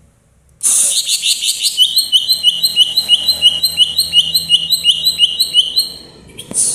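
Cucak ijo (green leafbird) singing a fast, even run of short repeated chirps, about five a second. It starts about half a second in and stops shortly before the end.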